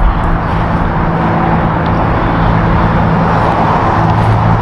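Car engine running with steady road noise while driving, a constant low hum with no change in pitch.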